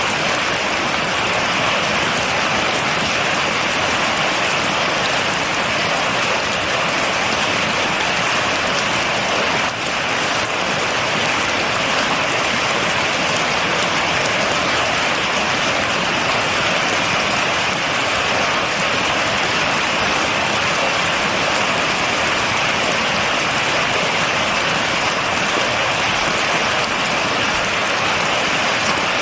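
Steady rain falling on a surface with no thunder: an even patter of drops that holds at the same level throughout, with a brief slight dip about ten seconds in.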